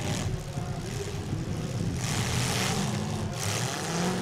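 Demolition derby car engines running together in a low, steady rumble. A broad rush of noise rises over them through the second half.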